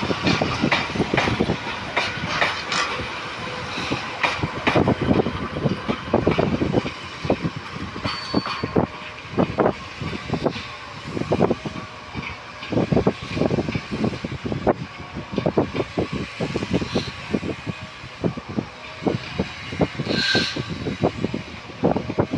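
Narrow-gauge train behind a TU10 diesel locomotive rolling past, its wheels clattering irregularly over the rail joints. There is a brief high squeal near the end.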